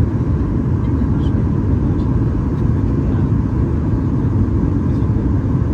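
Steady low rumble of a Boeing 737 MAX 8 cabin in flight on the descent: the CFM LEAP-1B engines and the airflow over the fuselage, heard from a forward window seat.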